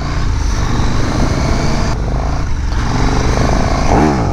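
KTM 1290 Super Duke R's V-twin engine pulling away from low speed under acceleration, its pitch climbing and then dropping near the end at a gear change.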